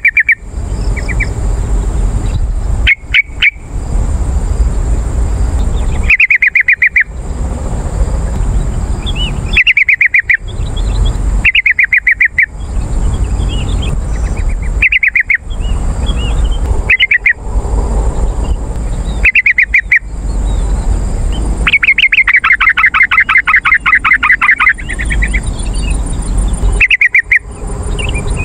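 Yellow-vented bulbul (trucukan) singing: short bubbling phrases repeated every second or two, with a longer rapid chattering run near the end, over steady background noise.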